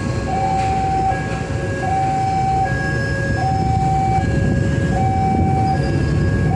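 Railway level-crossing warning alarm sounding a two-tone alternating signal, high then low, about one cycle every second and a half, over the rumble of a passing train.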